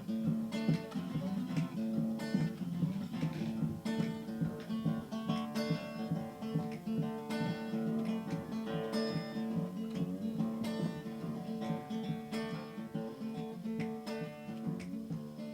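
Acoustic guitar strummed in a steady rhythm: an instrumental break in the song, with no singing.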